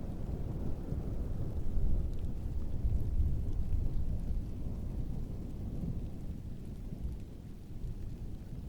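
Heavy rain with a long roll of distant thunder: the low rumble swells over the first couple of seconds, peaks around two to three seconds in, then slowly dies away.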